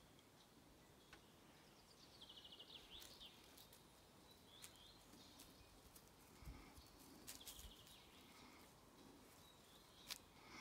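Near silence outdoors, with faint bird song in short trilled phrases about two seconds in and again about seven seconds in, and a few soft clicks.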